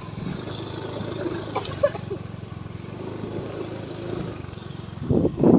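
A vehicle's engine running steadily while driving over a rough road, with a louder, rough rumble starting near the end.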